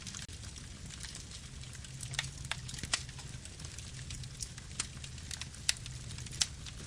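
Campfire burning: wood crackling with irregular sharp pops and snaps over a steady low rumble.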